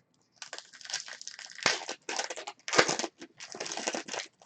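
Plastic wrapping crinkling and tearing as a box of baseball trading cards is unwrapped and its packs opened, with a few sharp crackles.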